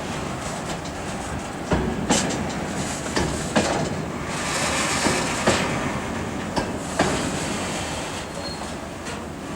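Freight train wagons rolling past, steady rumble with irregular clacks of wheels striking the rail joints.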